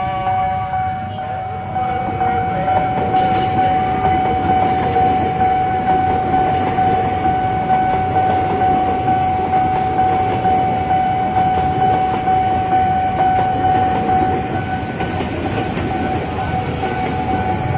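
Train passing over a level crossing, its wheels rumbling and clattering on the rails, with a steady high tone held over it until near the end.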